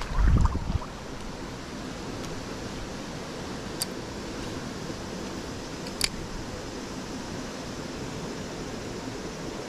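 Mountain stream rushing as a steady hiss. A low thump on the microphone comes in the first second, and two brief sharp clicks come about two seconds apart.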